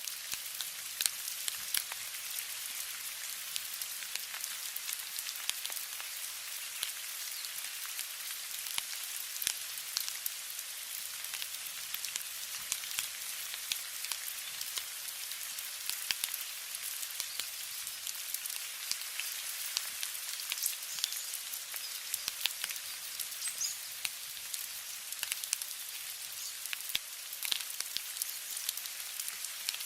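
Steady rain: an even, high hiss dotted with many small ticks of drops.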